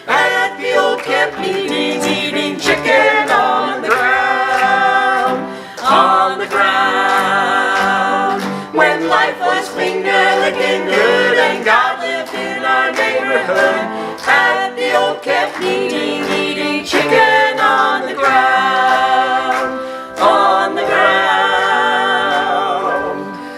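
Several voices singing a gospel song together in harmony.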